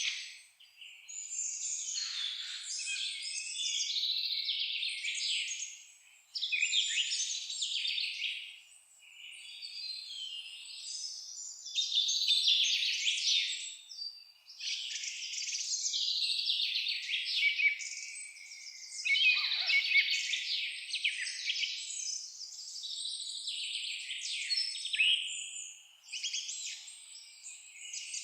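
Several songbirds singing and chirping together, in overlapping high trills and twitters that come in phrases a few seconds long with short pauses between them.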